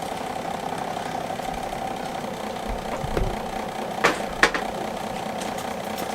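Electric fan running with a steady hum, with two sharp clicks about four seconds in.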